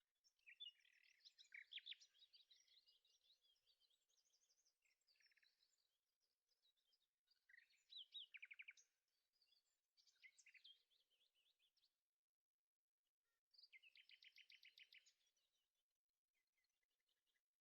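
Faint songbird singing: several short phrases of quick, high chirps and rapid trills, separated by brief pauses.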